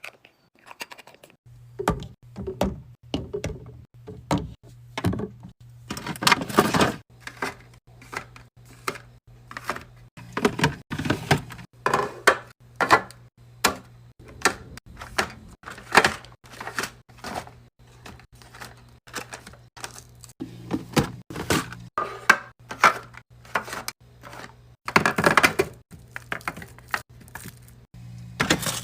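Repeated clacks, taps and thunks of containers and packaging being handled and set down into a fridge, irregular and of varying loudness, over a steady low hum that begins about a second and a half in.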